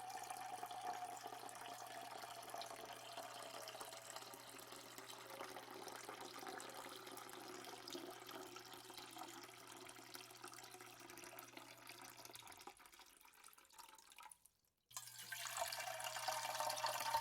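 Faint running, trickling water. It drops out for about two seconds near the end, then comes back louder.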